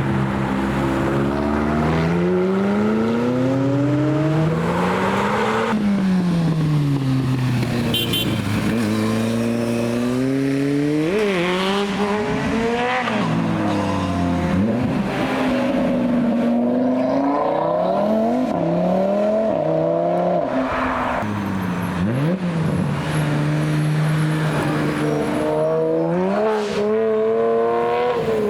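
Several performance cars accelerating hard one after another, engines revving up through the gears: the pitch climbs, drops at each upshift and climbs again, with the cars' engines overlapping.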